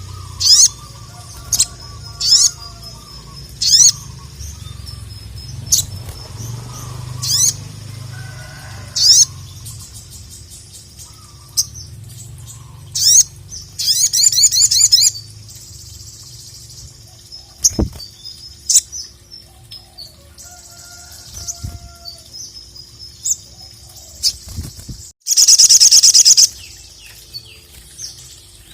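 Sogok ontong (little spiderhunter) singing in full voice: sharp, high, piercing notes every second or two, a quick high trill about halfway through, and a loud buzzy rattle near the end, the loudest call of all. A faint steady hum runs underneath.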